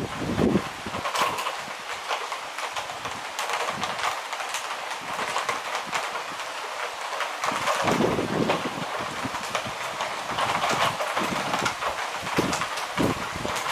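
Heavy rain falling steadily, with many sharp ticks of drops striking close by.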